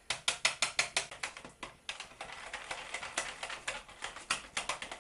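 Wire whisk beating a milk-and-roux mixture in a jug, its wires clicking rapidly and rhythmically against the jug's sides. The strokes are loudest in the first two seconds, then go quicker and lighter.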